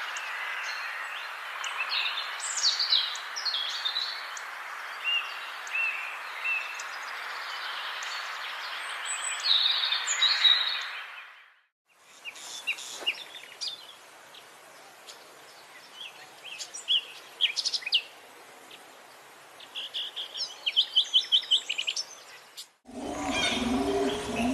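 Songbirds singing in a forest: short whistled and chirping phrases over a steady rushing background, which fades out about halfway. Then more birdsong over a quieter background, with a fast trill near the end, and a last abrupt change to low, repeated cooing like a dove's.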